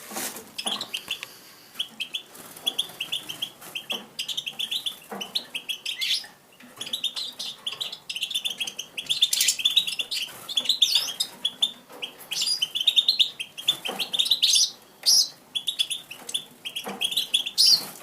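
Small songbird chirping in rapid runs of short, high notes, with occasional sharp clicks in between.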